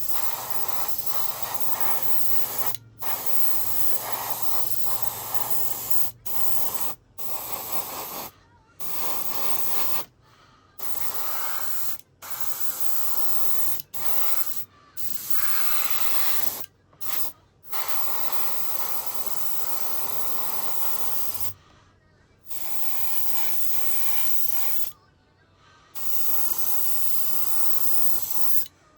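Aerosol spray paint can spraying model parts in about a dozen hissing bursts, most one to four seconds long, with short breaks between them.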